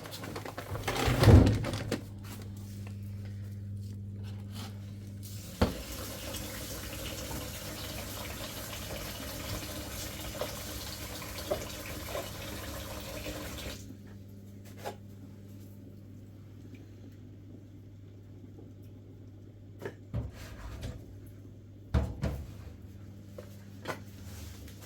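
Water running or pouring steadily for about eight seconds, then stopping suddenly, over a steady low hum. A few knocks of handled objects come near the start and again later.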